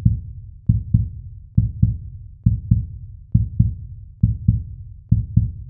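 A deep double thump, lub-dub like a heartbeat, repeating steadily about seven times, a little under one beat a second; a heartbeat-style intro sound effect or drum beat with nothing higher in pitch over it.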